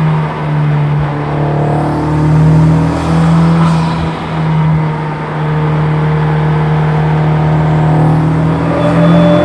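Honda Civic Type R (FK8) turbocharged 2.0-litre four-cylinder with bolt-on modifications, running at track speed. A steady drone with a few brief dips in pitch where the driver shifts or lifts, the pitch climbing slightly near the end.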